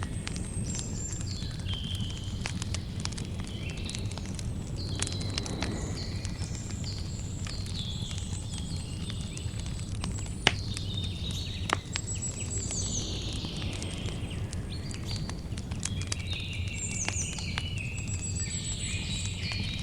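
Campfire crackling with scattered small snaps over a low steady rumble, and two louder pops about halfway through. Birds chirp and trill throughout.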